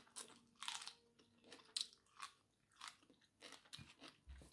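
Faint, close-up chewing and biting as a person works through a mouthful of rice and steamed sweet potato leaves eaten by hand: a run of short, irregular mouth noises.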